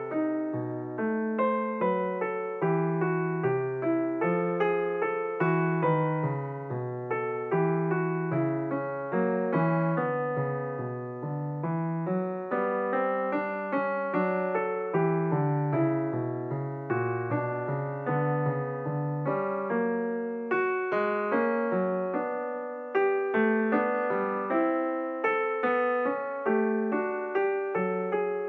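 Background piano music: a steady stream of struck notes, each fading after it sounds, in a calm repeating pattern.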